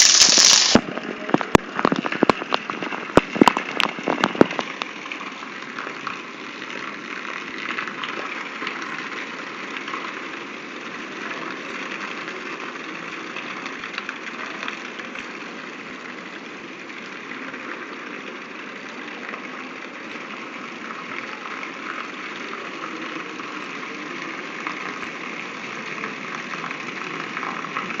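Heavy monsoon downpour: a steady rush of rain. Just after the start a run of sharp knocks and clicks sounds for about three and a half seconds before the rain continues on its own.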